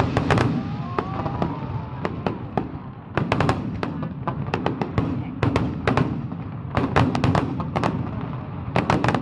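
Fireworks going off in rapid volleys of sharp bangs and crackles over a continuous low rumble. The bangs thin out between about one and three seconds in, then come thick again. A few brief wavering whistles sound about a second in.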